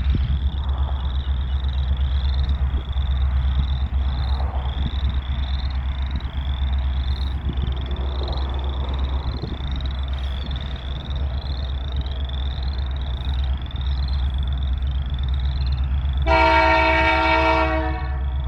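Frogs calling in a steady run of short chirps, about two a second, over a continuous low rumble. Near the end a locomotive horn sounds one chord blast of under two seconds, the loudest sound here.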